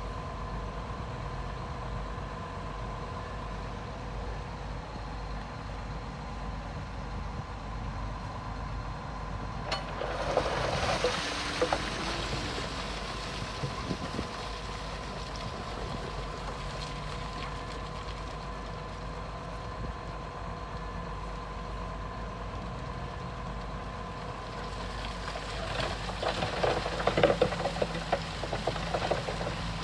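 Diesel engine of heavy earthmoving machinery running steadily. About ten seconds in, and again near the end, there are spells of rock clattering and crunching.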